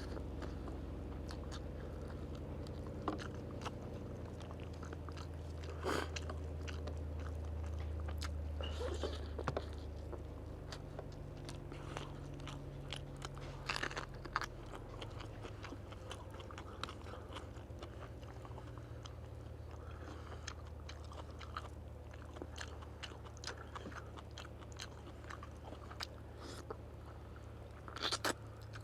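A person eating close to the microphone: chewing and biting into crunchy food, with irregular small crunches and clicks. A steady low hum runs underneath.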